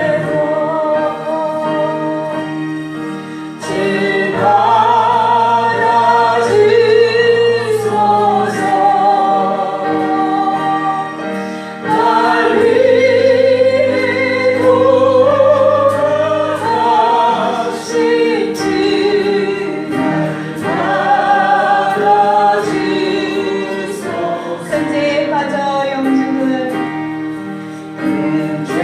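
Church congregation singing a Korean gospel hymn together, with sustained instrumental accompaniment underneath.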